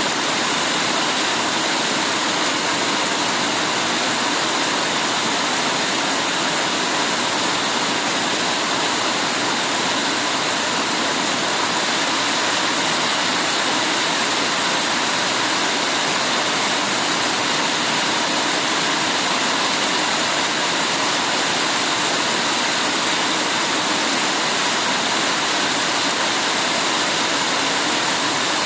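Heavy rain pouring down, a steady unbroken hiss with no separate drops or gusts standing out.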